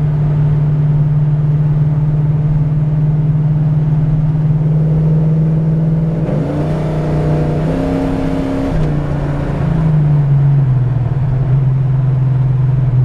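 Steady drone of a 1970 Chevelle SS's V8, built with a big cam and aluminum heads, heard from inside the cabin while cruising. An oncoming car rushes past about halfway through, and the engine note drops in pitch a few seconds before the end.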